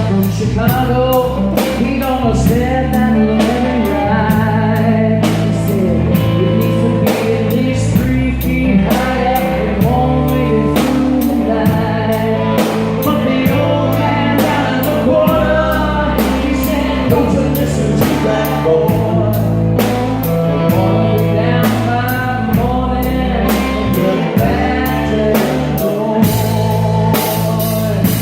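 A band playing an instrumental break: a drum kit keeping a steady beat under bass and chords, with a lead melody line that bends and wavers in pitch over the top.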